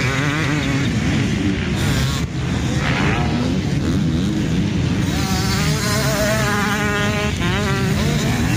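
Several motocross bike engines revving on the track, their pitch repeatedly rising and falling as they accelerate and shift; one bike climbs clearly in pitch over several seconds near the end.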